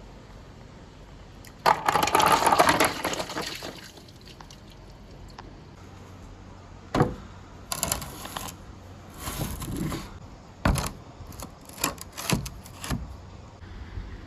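Marbles rolling and clattering down a marble run: a dense rattle of about two seconds starting nearly two seconds in, then a string of separate clacks and short rattles.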